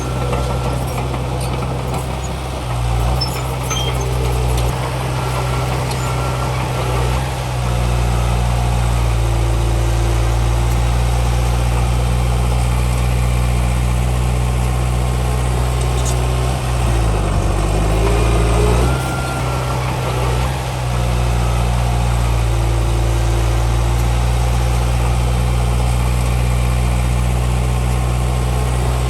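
Heavy diesel engine of earthmoving machinery running steadily, with a brief dip and change in pitch about two-thirds of the way through as the load shifts.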